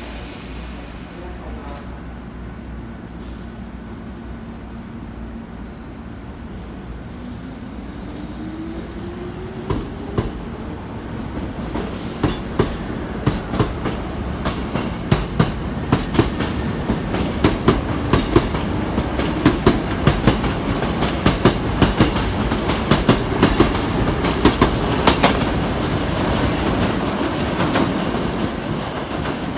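Hankyu 5300 series electric train departing: a rising motor whine as it picks up speed, then its wheels clicking over the rail joints, faster and louder as the cars pass, fading near the end as it draws away.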